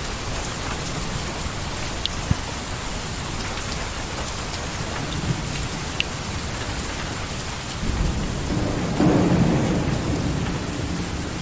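Steady heavy rain falling, with a few sharp drip ticks. A low rumble of thunder swells about eight seconds in and peaks a second or so later.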